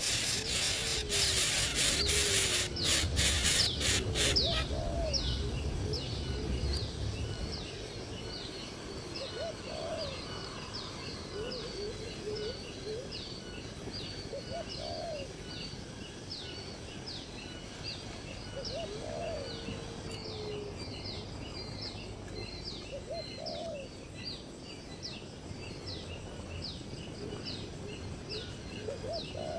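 Birds calling: a long series of short, high chirps, about one or two a second, with lower rising-and-falling calls every few seconds. A loud rustling noise with clicks fills the first four seconds or so.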